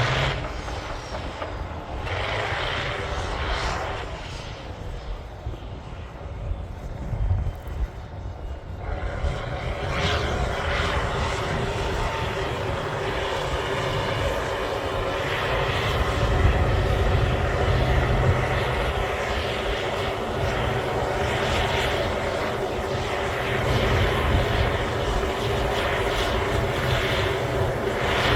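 Cat D9L bulldozer's diesel engine running, its note easing for several seconds and then rising and holding strong from about nine seconds in, as under heavier load.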